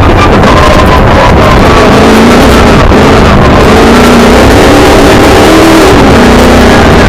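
Milner R5 race car's 5-litre V8 engine heard from inside the cockpit, revs rising and falling repeatedly as the driver accelerates and lifts, over a loud steady rushing noise.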